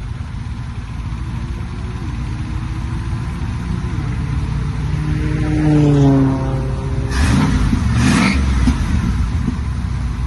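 Batmobile's engine accelerating toward the microphone, rising in pitch, then dropping sharply in pitch as the car passes about six seconds in. Two short rushing blasts follow a second or two later.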